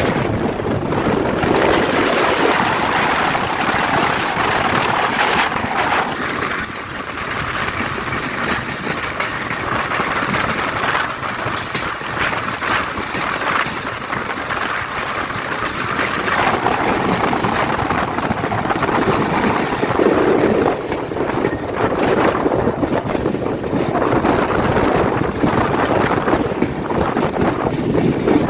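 Steady running noise of a moving passenger train, heard from an open window of its LHB coach, mixed with wind rushing over the microphone.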